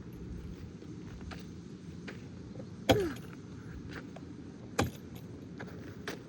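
Strong wind buffeting the microphone as a steady low rumble, broken by two sharp knocks about three and five seconds in, the first one the loudest.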